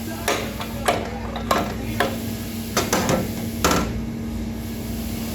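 Metal tools and parts being handled during transmission work: several sharp metallic clinks and knocks at irregular intervals, over a steady low hum.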